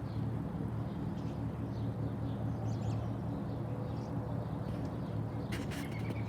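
Steady low rumble of road traffic, with short high bird calls from a flock scattered through it and a brief cluster of them near the end.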